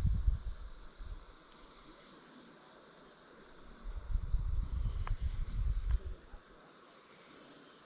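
Steady chorus of crickets and other insects, with low buffeting rumbles at the start and again from about four to six and a half seconds in.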